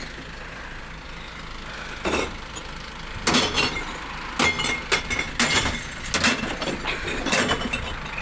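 Glass bottles and jars clinking and crashing as a kerbside glass recycling truck tips a load of glass into its body, over the truck's idling engine. A knock comes about two seconds in, and a run of clinks and smashes starts about a second later.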